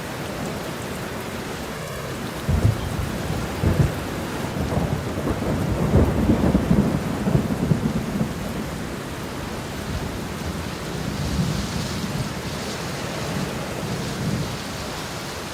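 Steady rain with thunder rumbling: low rolls start about two and a half seconds in, swell loudest around six seconds, then ease off into the rain again.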